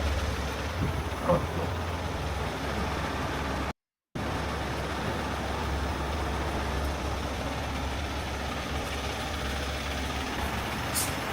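Heavy tow truck's diesel engine running steadily, with a short hiss near the end. The sound drops out completely for a moment about four seconds in.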